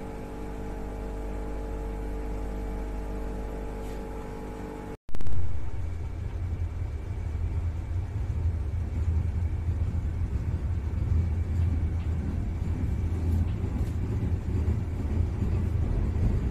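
Inside the driving cab of the Vande Bharat Express electric train: a steady electrical hum with several fixed tones while the train stands. It cuts off abruptly about five seconds in, and then the deep, even rumble of the train running along the track takes over.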